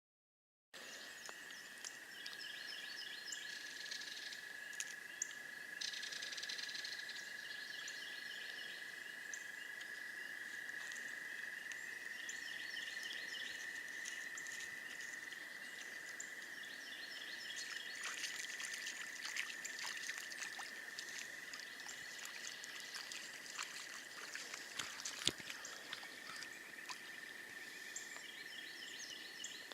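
A chorus of frogs trilling in a steady, unbroken drone at one high pitch, with higher chirping calls repeating over it and a few faint clicks; the sharpest click comes about 25 seconds in.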